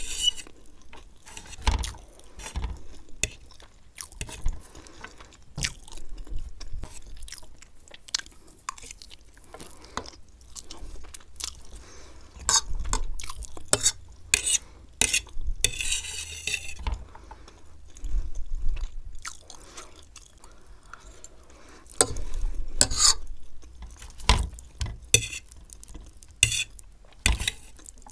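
Close-miked chewing of Maggi noodles and fried egg, with a metal fork clicking and scraping on the plate between mouthfuls, in short irregular bursts.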